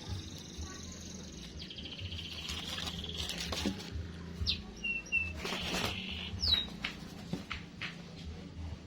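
Young doves cheeping: a string of short, high-pitched squeaky calls over a low steady hum.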